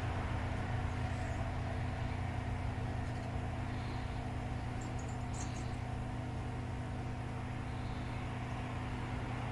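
Small heat gun running steadily, its fan and hot air blowing with a low hum, while it heats the circuit board from the back to melt the solder holding the USB port. A couple of faint ticks about halfway through.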